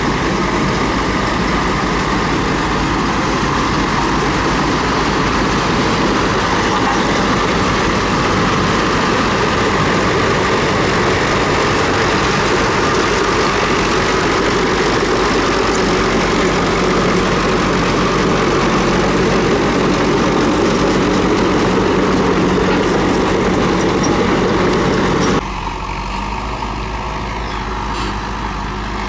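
Diesel engine of a Komatsu D31P bulldozer running steadily while it works. The sound drops suddenly to a quieter level near the end.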